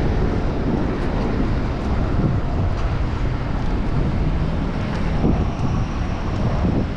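Steady wind rumble on the microphone of a camera riding on a moving bicycle, mixed with city street traffic noise.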